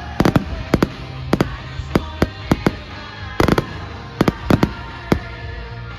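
Fireworks display: a rapid, irregular series of sharp bangs, two or three a second, with the loudest burst about three and a half seconds in.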